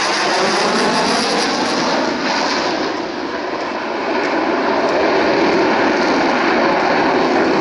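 Fighter jet flying a display pass, its engine a loud, steady rush of noise that dips briefly about three seconds in.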